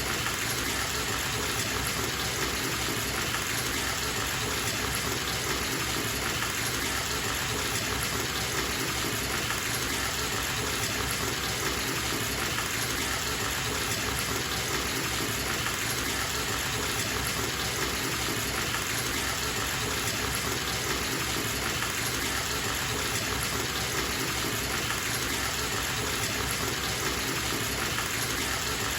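Bathtub tap running steadily, the stream splashing into the filling tub.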